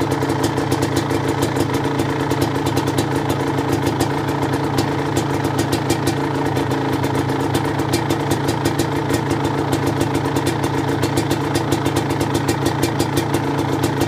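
Suzuki LT250R's liquid-cooled 250 cc two-stroke single idling steadily while it warms up after a cold start, with an even, rapid firing pulse throughout.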